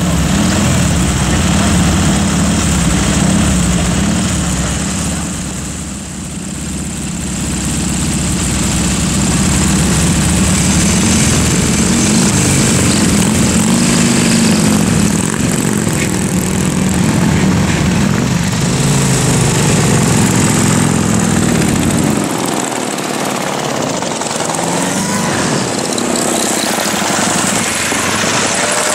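Several vintage Morgan three-wheelers' exposed V-twin engines running at close range, revving up and down as the cars pull away. The deep rumble drops away a few seconds before the end.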